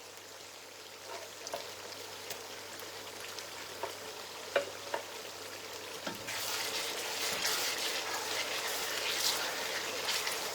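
Blended onion, ginger and garlic frying in red palm oil in a pot, sizzling, with a few light clicks in the first half. The sizzling gets louder about six seconds in.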